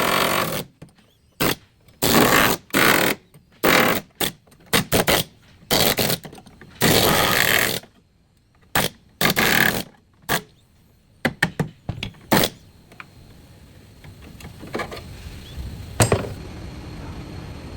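A tool run in repeated short bursts, each lasting under a second, stopping about two-thirds of the way through. A single sharp knock follows near the end.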